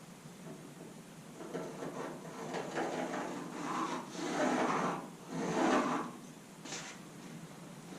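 A piece of cardboard being handled and rubbed against the car's sheet-metal body, making irregular rustling and scraping with two longer, louder strokes just past the middle.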